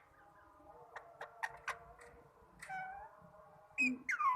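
Pet parrot calling: a few short clicks, then drawn-out meow-like calls that fall in pitch, the loudest near the end.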